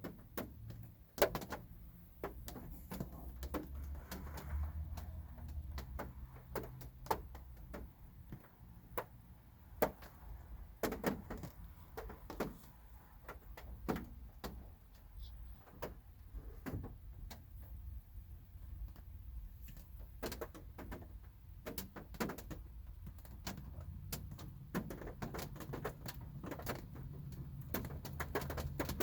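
Light rain heard from inside a car: scattered raindrops tapping irregularly on the roof and glass, some louder than others, over a low rumble.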